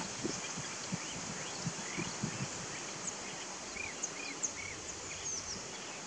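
Songbirds singing and calling by a river: scattered short high chirps and a quick run of arched, down-sweeping notes about four seconds in, over a steady hiss, with a few soft low thumps.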